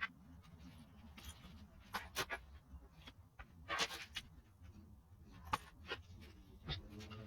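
Scattered light clicks, taps and scrapes of tools and small metal engine parts being handled, over a faint low hum.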